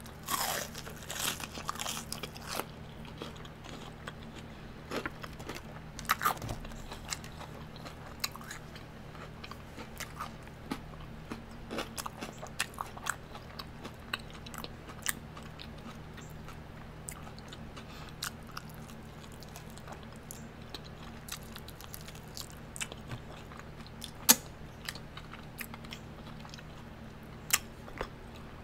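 A person bites into a crispy-battered Korean corn dog close to the microphone and chews it. Crunching is densest in the first two or three seconds, then thins to scattered crunches and wet mouth clicks, over a faint steady low hum.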